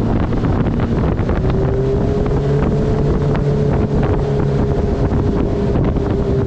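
Turbocharged Honda engine of a mini jet boat running steadily under way, its pitch stepping up slightly about a second and a half in. Wind buffets the microphone throughout.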